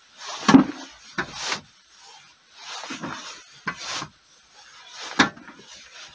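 Digging into sandy earth with a hand tool: a series of separate scraping, scooping strokes at an uneven pace, the loudest about half a second in and again just after five seconds.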